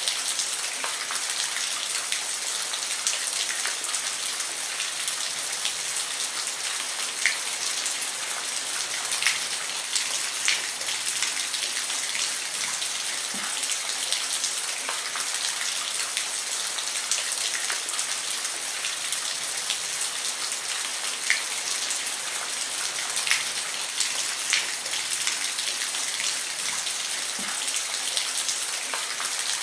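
Steady rain falling on a roof, an even patter with single drops ticking sharply here and there.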